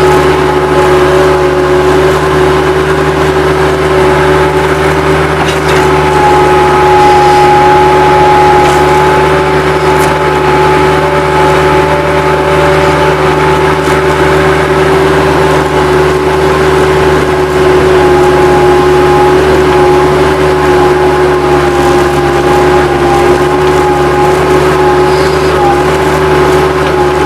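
Bobcat 763 skid-steer loader's diesel engine running steadily and loudly, with a steady whine over it; a second, higher whine joins about six seconds in and holds.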